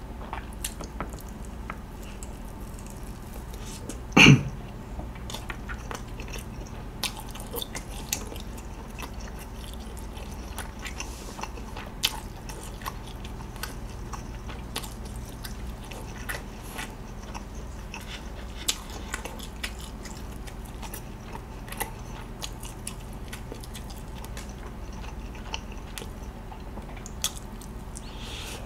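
Close-miked eating of a grilled sausage skewer: chewing with many small wet mouth clicks and crunches, and a bite taken near the end. One short, loud vocal sound about four seconds in.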